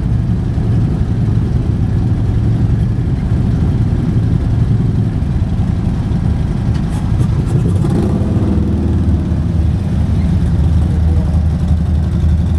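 Vehicle running at road speed: a steady low engine rumble mixed with road and wind noise.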